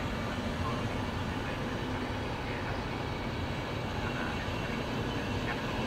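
Electric locomotive-hauled passenger train with white-and-red coaches running past, a steady rumble of wheels on rails.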